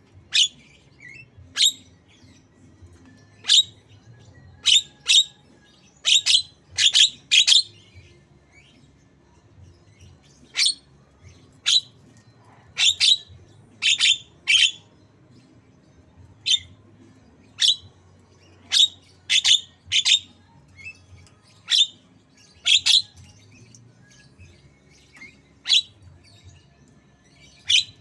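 Javan myna giving short, sharp calls one after another at irregular intervals, roughly one a second, mimicking a white-rumped shama. A faint low hum lies underneath.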